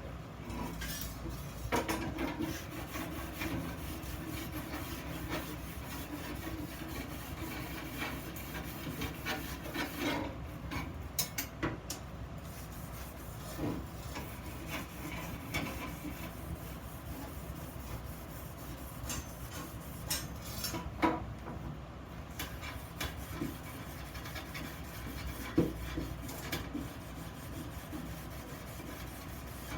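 Steady rubbing and scraping of hand work on iron pieces, with scattered sharp knocks and clicks.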